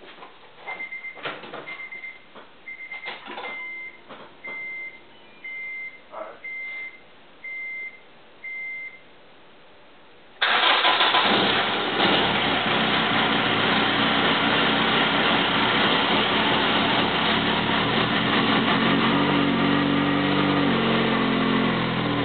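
A few clicks and a dashboard chime beeping about nine times, then a 2006 Honda Civic EX's 1.8-litre four-cylinder engine, newly fitted with a TSI turbo kit, starts about ten seconds in on its first start and keeps running steadily.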